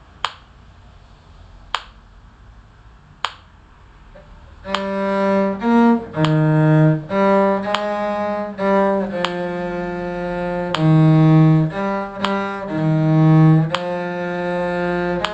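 Sharp clicks keeping a steady beat about every second and a half, then a bowed string instrument in a low register starts a tune about a third of the way in, played at a slow practice tempo with long held notes and shorter moving ones.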